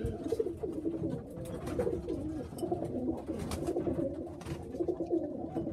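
Pigeons cooing in a loft: overlapping low, wavering coos that run on throughout, with a few light clicks and scuffs.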